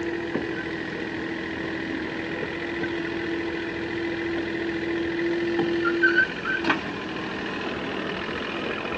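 Small engine running steadily, with a single sharp knock about seven seconds in.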